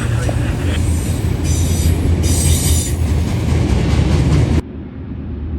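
Freight train of loaded autorack cars rolling past close by: steady wheel-and-rail rumble with high-pitched wheel squeal in the middle. It drops suddenly to a quieter rumble near the end.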